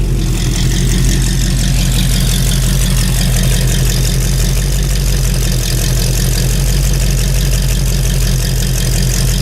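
Truck engine idling steadily, its exhaust note even and low with no revving.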